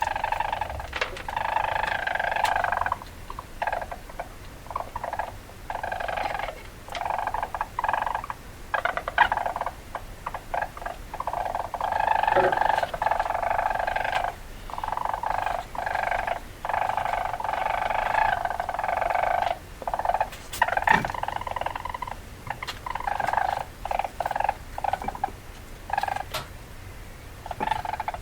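Weasel calls: repeated bursts of calling, each a second or two long, broken by short gaps and sharp clicks.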